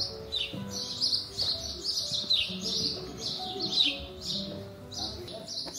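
Small birds chirping over and over, short high chirps that slide downward, about two a second, with soft background music underneath.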